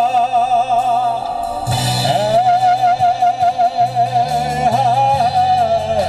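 A song performed live: a singer holds long notes with vibrato over instrumental accompaniment, with a short break about a second in before the next long note.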